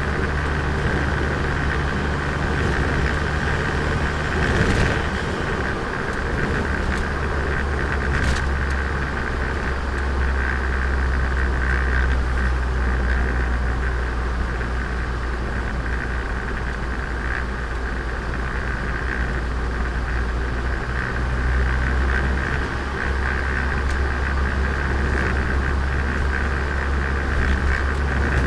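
Turbocharged Nissan Micra engine running steadily as the car drives, with a short click about five seconds in and another about eight seconds in.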